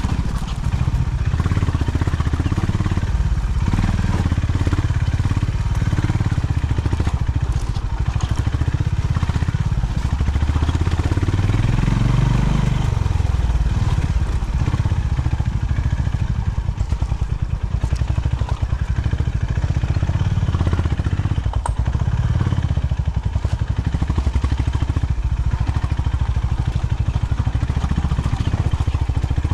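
Honda CB350 H'ness single-cylinder motorcycle engine running under way at low revs, with a steady low thumping exhaust. It revs up and back down once about twelve seconds in.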